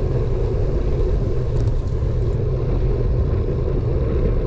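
Steady low wind rumble and road noise on a bike-mounted GoPro Hero 5 Black's microphone while riding a bicycle uphill.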